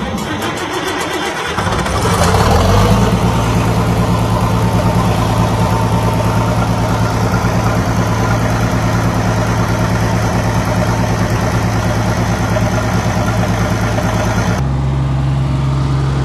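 Tractor engine cranked on the starter, catching after about a second and a half and settling into a steady run. Near the end the running note changes abruptly to a steadier, lower sound.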